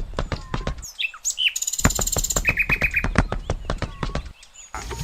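Small birds chirping and trilling over a rapid run of sharp clicks, several a second, with brief breaks where the background drops out.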